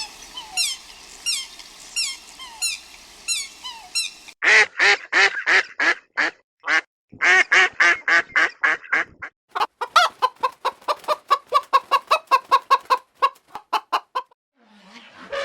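Domestic fowl calling. First come about four seconds of high, falling peeps, then runs of loud repeated calls; the last run is quicker, at about four or five calls a second.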